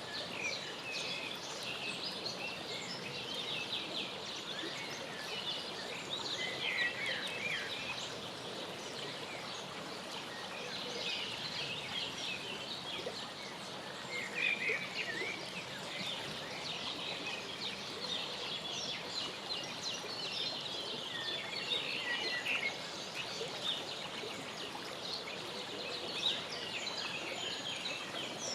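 Many birds chirping and calling continuously in quick, high, short notes, with a few louder calls that slide down in pitch, over a steady outdoor background hiss.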